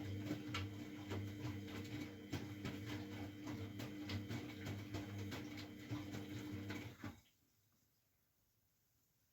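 Miele Novotronic W912 washing machine running, with a steady motor hum and many small clicks and knocks from the turning drum. The motor stops abruptly about seven seconds in, and everything goes near silent.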